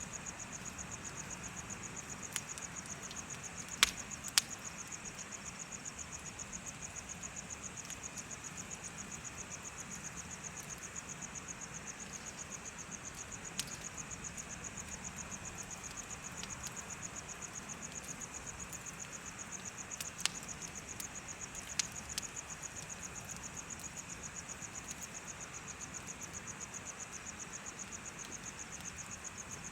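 Crickets chirping in a steady, rapid high trill, with a bonfire crackling under it and a few sharp pops, the loudest a pair about four seconds in and others around twenty seconds in.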